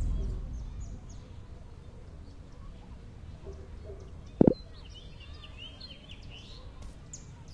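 Birds chirping over a quiet outdoor background, after a vehicle's rumble fades out in the first second. A single sharp knock comes about four and a half seconds in.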